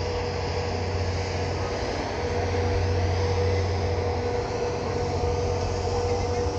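Freight cars of a train rolling past close by: a steady low rumble of wheels on rail, with a thin steady tone running through it.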